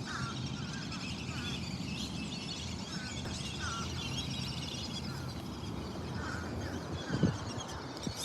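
A chorus of many small birds chirping and trilling together, with lower, separate calls mixed in, over a steady low rumble. A short low thump comes about seven seconds in.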